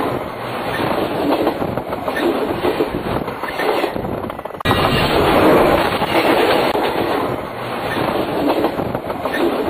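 Railroad cars rolling overhead, heard from between the rails: a loud, continuous rumble and clatter of steel wheels on the track. The sound breaks off abruptly about halfway through and starts again at once.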